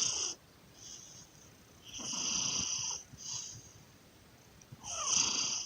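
A pet snoring, with a drawn-out snore and a shorter one following it about every three seconds.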